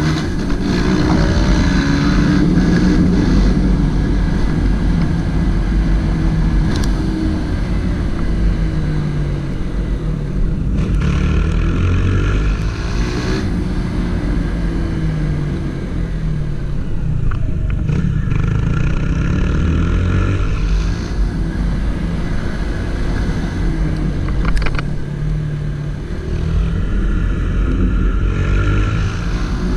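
Single-cylinder Honda CG 160 Titan motorcycle engine riding through traffic, its pitch rising and falling several times as the rider accelerates, shifts and slows.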